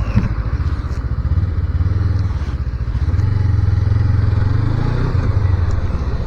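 250cc motorcycle engine running steadily while being ridden, heard from the bike's onboard camera; the engine note gets louder around the middle and eases off near the end.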